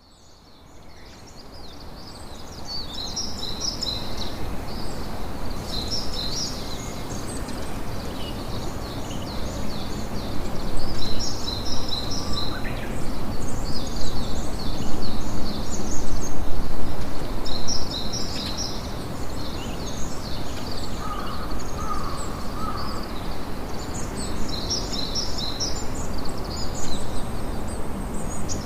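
Campfire crackling steadily, with clusters of high chirping calls recurring throughout; the sound fades up from silence over the first few seconds.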